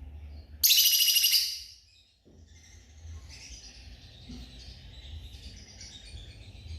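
Lovebirds calling: a loud, harsh, rapidly pulsing high chatter about a second in, then softer, scattered high chirps.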